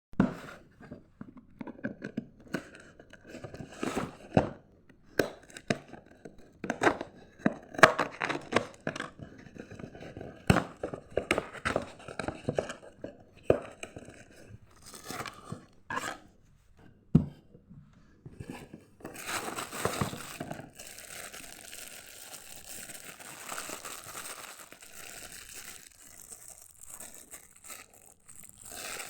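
Plastic courier packaging being torn open and crinkled by hand. For roughly the first two-thirds there is a run of sharp rips and cracks, and after that a steadier rustling and crinkling.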